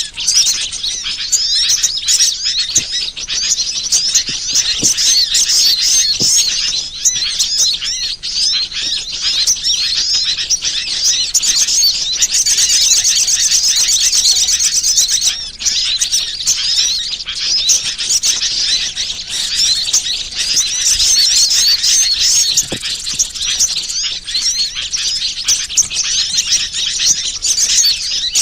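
Dense, continuous high-pitched chirping and twittering of many small birds, with rapid trills at times: a bird-lure call recording.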